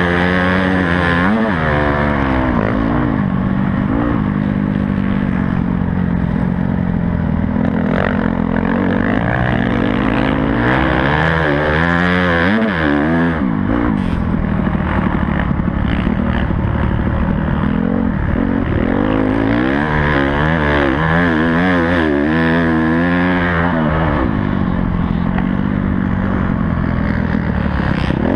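Honda CRF250 four-stroke single-cylinder dirt bike engine, heard close up from the bike, revving up and dropping back over and over as the rider accelerates and shuts off around a motocross track, with a few short knocks in between.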